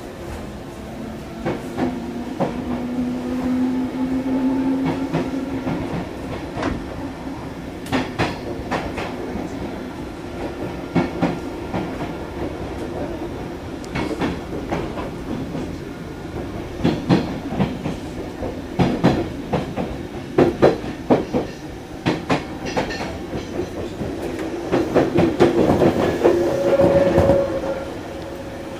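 Odakyu 5000 series electric train running, with a steady hum and a motor tone that rises slightly a couple of seconds in. Wheels click over rail joints in repeated groups, thickest toward the middle, and a higher tone comes in near the end.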